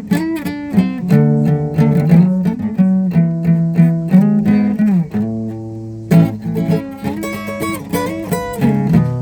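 Guitar playing a run of single plucked notes, some bent or slid in pitch, with a sliding fall in pitch about halfway through.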